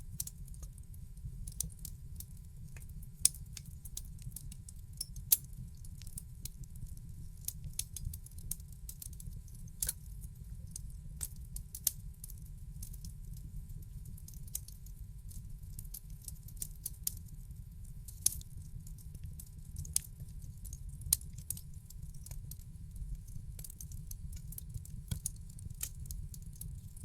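Wood fire in a fireplace crackling: irregular sharp pops and snaps, a few much louder than the rest, over a steady low rumble of the flames.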